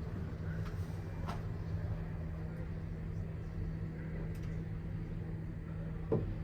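Large diesel engine of a Hitachi EH4000AC-5 rigid dump truck running with a steady low drone and a constant hum. There is a brief sharp sound about six seconds in.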